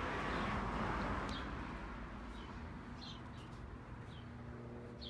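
A small bird chirping about five times, short high chirps that each drop in pitch, over a low steady hum. A broad rushing noise is loudest at the start and fades away over the first two seconds.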